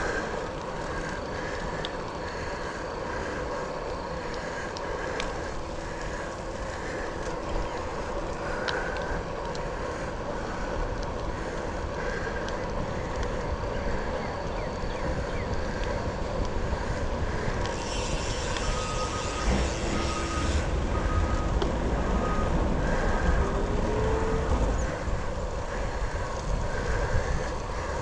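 Specialized Sirrus X bicycle rolling along a wet paved trail: steady tyre and road noise with wind buffeting the microphone, getting somewhat louder in the second half, with a brief burst of hiss about two-thirds of the way through.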